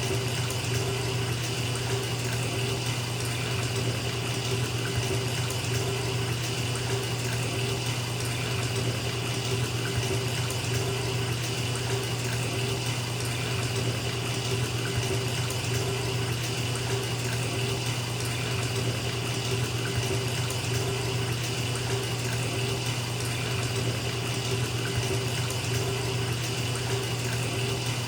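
Bathtub tap running steadily into a filling tub, a continuous rushing of water with a low steady hum beneath it.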